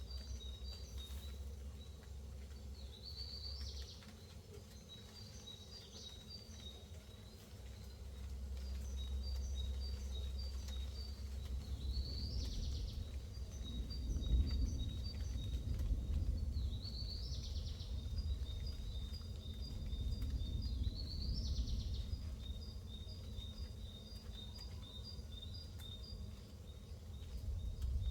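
Low rumble of rolling thunder that swells about a third of the way in and slowly fades, under a steady series of short high chirps with a rising call repeating every few seconds.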